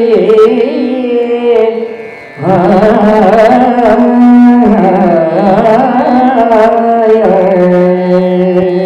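A woman singing a slow Carnatic-style melody on long held vowels, with wavering, ornamented turns in the pitch, over a steady instrumental drone. The voice drops away briefly about two seconds in, then comes back strongly.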